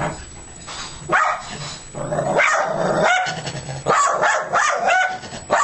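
A dog barking angrily, a rapid irregular string of about eight barks.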